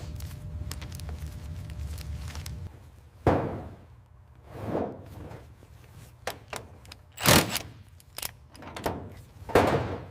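A low hum that stops about two and a half seconds in, followed by four heavy knocks or thuds, each with a swishing tail, and small clicks between them.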